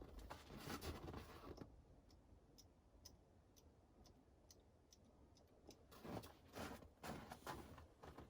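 Near silence with faint scattered clicks and two spells of soft rustling and handling noise, near the start and again about six seconds in.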